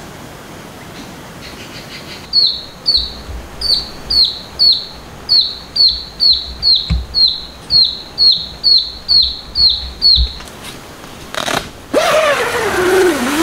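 A bird calling over and over: short, high notes that each slide downward, about two a second, for roughly eight seconds before stopping. Near the end a louder sound with a pitch that slides steadily downward comes in.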